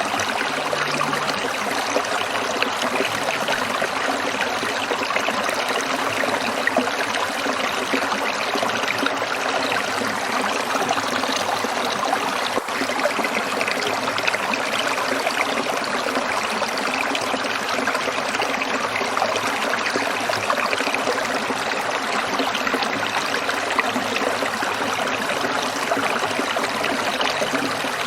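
Shallow stream trickling and splashing over rocks, a steady, dense water sound.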